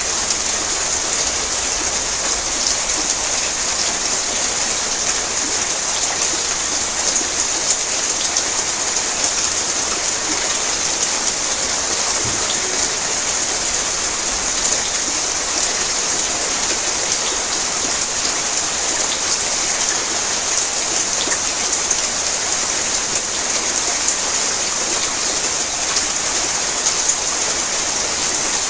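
Heavy rain falling on a tin roof: a steady, dense hiss of drops with fine, rapid tapping throughout.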